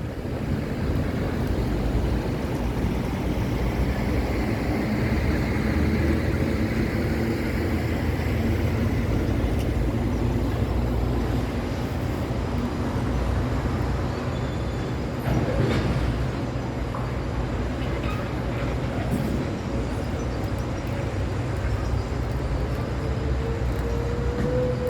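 City road traffic: the engines and tyres of passing cars, trucks and motorcycles make a steady low rumble. Near the end one engine note rises as a vehicle accelerates.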